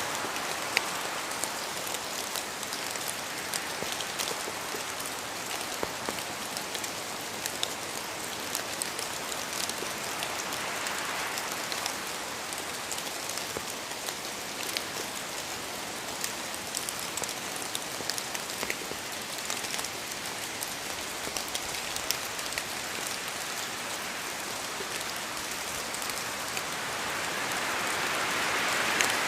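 Steady rain falling through forest trees, with many separate drops pattering on leaves and the ground. A broader rushing swell builds near the end.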